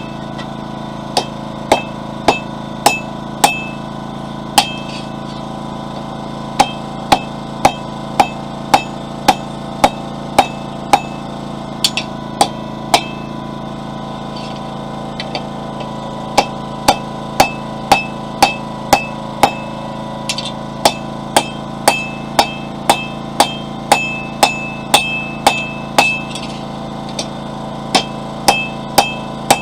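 Hand hammer striking hot flat steel on an anvil to draw it out, in runs of blows about two a second with short pauses between runs; many blows leave a brief metallic ring. A generator runs steadily underneath.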